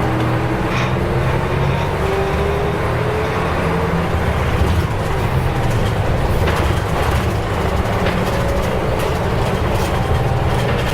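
Nissan Diesel U-UA440LSN city bus under way, its diesel engine and drivetrain running with a whine that rises in pitch over the first few seconds as the bus picks up speed, then rises again later.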